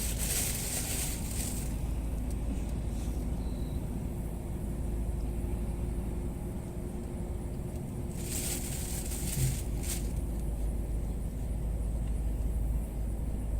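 Steady low rumble of a vehicle running, with short bursts of hiss at the start and again about eight and ten seconds in.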